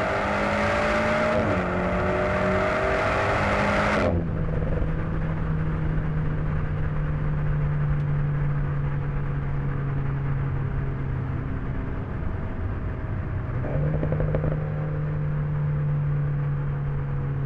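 The Alpine A110 S's turbocharged four-cylinder engine accelerates hard, with a gear change about a second and a half in. About four seconds in the driver lifts off, and the engine settles into a steady, lighter-load note that slowly falls. Near the end the note briefly steps up in pitch again.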